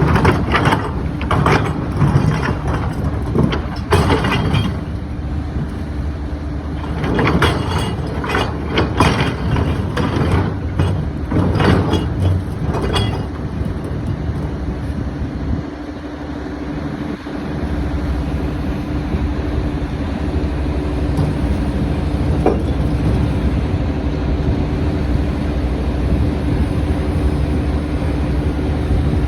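Excavator's diesel engine running steadily, with a series of knocks and scrapes from the machine at work through the first half.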